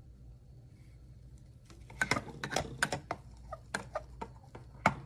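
Irregular sharp clicks and light knocks of hard objects being handled, starting about two seconds in over a faint low hum.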